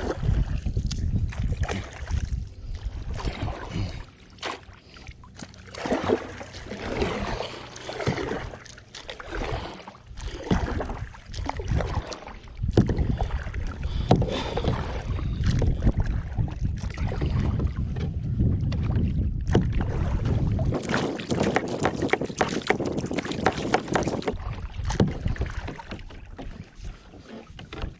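Kayak being paddled by hand, the paddle splashing and knocking irregularly, with wind rumbling on the microphone. A louder rushing hiss lasts about three seconds near the end.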